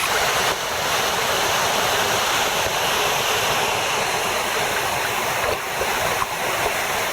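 Waterfall pouring steadily into the water, an even, continuous splashing.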